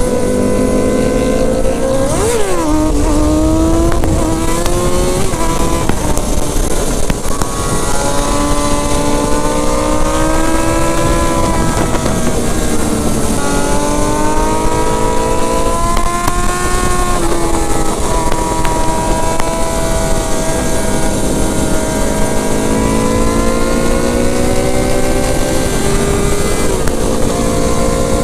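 Sport bike engine pulling hard under way, its revs climbing steadily and dropping back sharply about four times, over steady wind rush.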